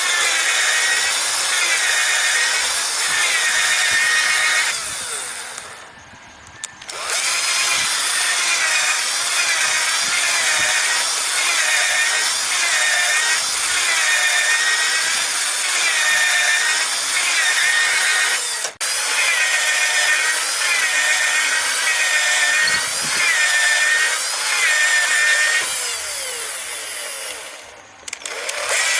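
Hand saw cutting through bamboo with steady back-and-forth strokes, about one and a half a second. The sawing stops briefly about five seconds in and again near the end.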